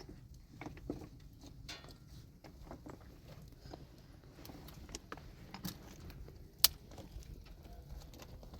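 Scattered faint clicks and light knocks, with one sharp click about two-thirds of the way through.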